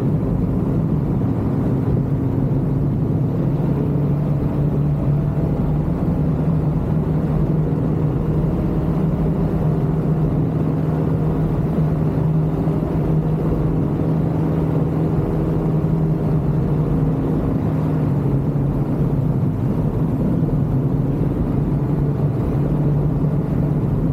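Ultralight aircraft engine running steadily at a constant pitch.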